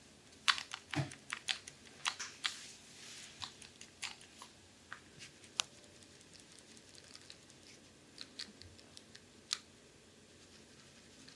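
Hands massaging an aroma-oiled abdomen: irregular small clicks and smacks of palms on skin, busiest in the first three seconds, then sparser.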